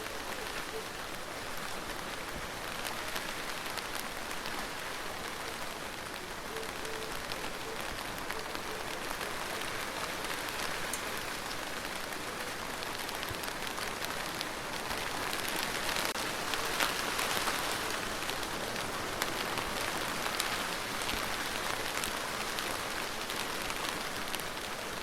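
Steady rain falling on a surface, a dense patter of drops with fine individual ticks, growing a little heavier partway through.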